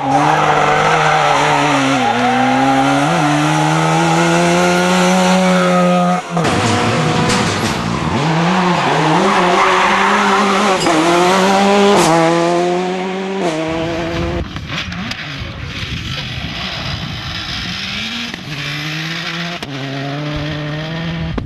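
Rally car engine at high revs, its note dipping and climbing through throttle lifts and gear changes, with tyre noise over it. After about 13 seconds it drops away to a quieter engine sound.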